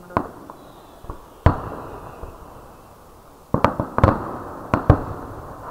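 Fireworks bursting: a bang just after the start, a louder one about a second and a half in, then a quick run of bangs between about three and a half and five seconds in, each trailing off in echo.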